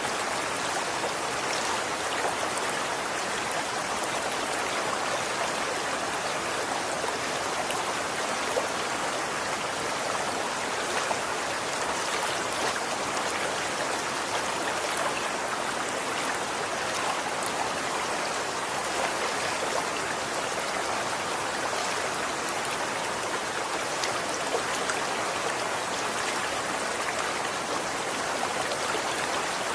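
Running water flowing steadily, a constant splashing rush with small droplet splashes ticking through it.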